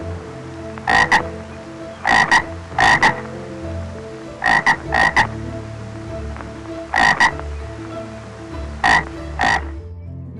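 Frog croaking in short repeated calls, mostly in pairs with one group of three, a second or two apart, over a steady low drone.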